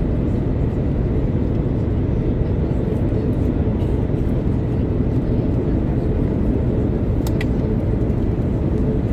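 Steady low roar inside the cabin of an Airbus A330-900neo, the engines and rushing air heard from a window seat, with a faint steady hum over it. A few light ticks sound about seven seconds in.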